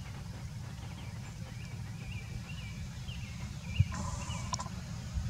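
A bird giving a series of short high chirps, about three a second, over a steady low rumble. A sharp thump about four seconds in is the loudest sound.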